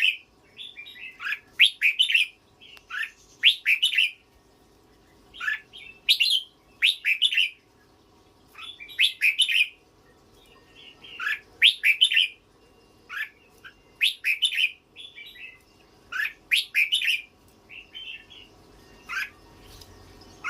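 Young pet bird, on its first day of perching, giving repeated bursts of sharp chirps, a cluster of quick notes every second or two.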